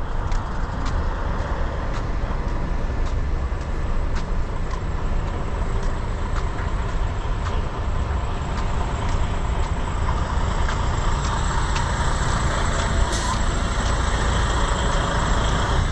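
Steady rumble of a moving road vehicle: engine and road noise with a heavy low end, and faint light clicks about twice a second.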